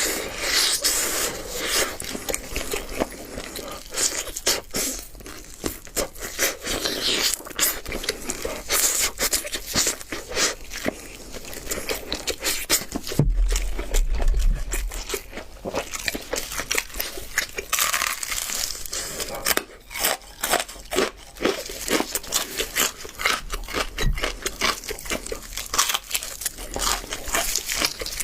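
Close-miked eating of crispy double-fried chicken drumsticks: repeated bites crunching through the floured crust, with chewing and crackling throughout. There is a dull low thump about 13 seconds in.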